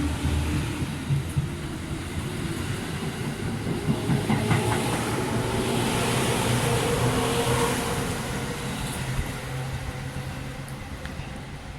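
Seibu 4000 series electric train running by, wheels clicking over rail joints over a steady motor hum; it is loudest around the middle and fades toward the end.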